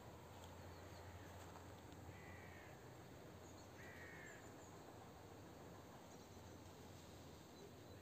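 A bird calling twice, faint, each call about half a second long and about a second and a half apart.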